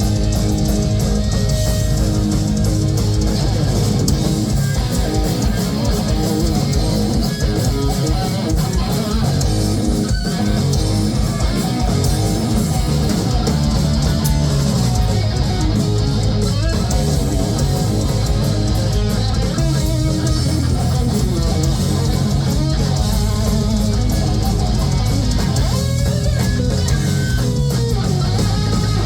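Heavy metal band playing live: electric guitars, bass guitar and drums, loud and unbroken.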